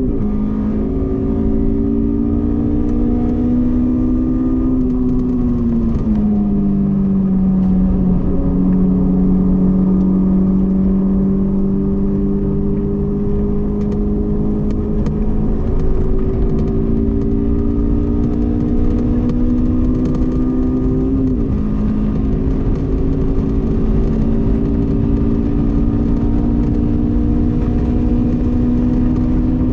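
Honda S2000's four-cylinder engine running hard at high revs on a race track, its pitch climbing slowly under load and dropping sharply about six seconds in and again about twenty-one seconds in.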